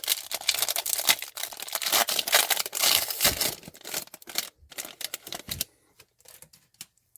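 Crinkling and tearing of a trading-card pack wrapper as it is ripped open and handled, a dense crackle that stops about five and a half seconds in, followed by a few faint clicks of cards being handled.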